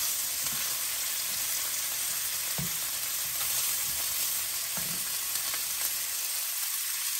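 Sausages and ham slices sizzling steadily in a hot frying pan, with three soft knocks as tongs move them in the pan.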